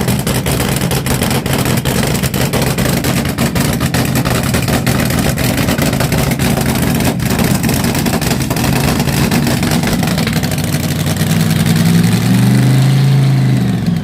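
A vintage rail dragster's big-block V8 idling loudly with uneven firing pulses. It revs up briefly about twelve seconds in, then drops away at the very end.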